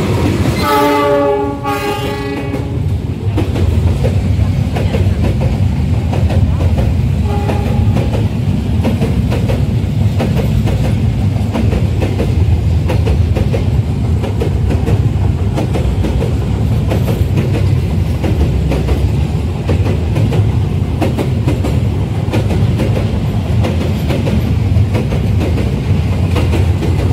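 A KAI diesel train passes very close. Its horn sounds for about two seconds at the start and briefly again about seven seconds in. The rest is the steady loud rumble and clatter of the locomotive and wagons rolling by.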